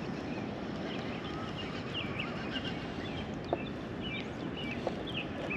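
Wind buffeting the microphone in a steady rush, with small birds chirping a number of short notes through the middle and a couple of faint knocks.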